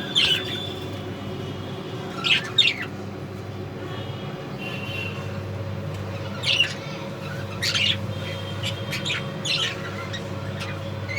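Australian parrots giving short, sharp calls, scattered singly and in pairs every second or few, over a steady low hum.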